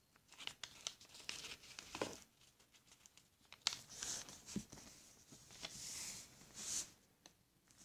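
A sheet of paper being folded and creased by hand: faint, scattered rustles and soft crinkles, with a slightly longer rustle about six seconds in.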